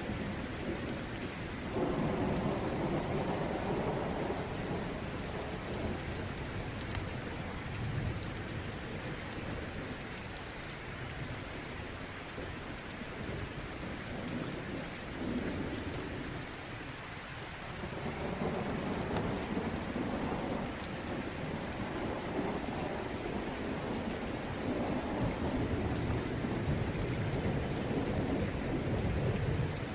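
Steady rain falling, with deep rolling thunder rumbles that swell about two seconds in and again through most of the second half.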